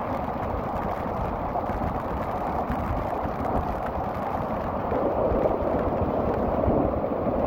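Rough sea waves surging and breaking in a storm, with strong wind buffeting the microphone as a steady low rumble; the surge swells louder about five seconds in.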